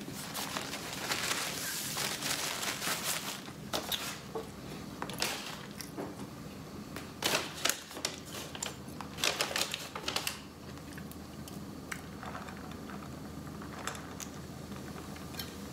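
Chewing a chicken burrito close to the microphone: many sharp mouth clicks and crackles, busiest in the first ten seconds, then only a few faint ticks.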